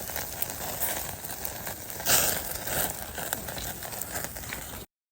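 Wood campfire crackling, a dense run of small pops and snaps, with a louder hissing flare about two seconds in. The sound cuts off abruptly near the end.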